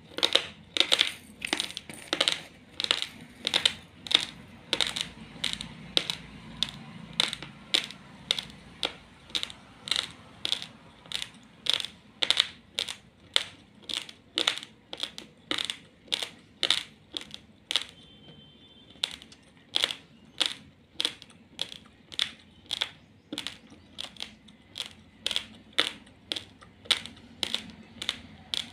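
Raw long-grain basmati rice being chewed: sharp, even crunches about two a second, with a short break about two thirds of the way through.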